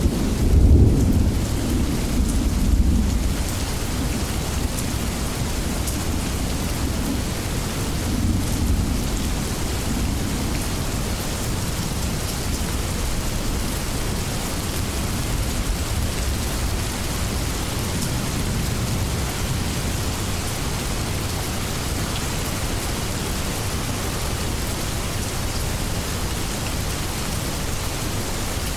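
Heavy, steady rain with rolling thunder: low rumbles swell about a second in and again around eight seconds, then the rain hiss carries on alone.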